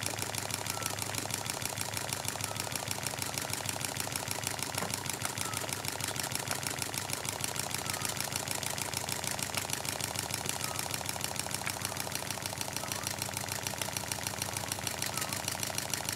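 Gage TVR1a model steam engine running steadily on low steam, a fast, even clatter of exhaust beats and valve gear clicks.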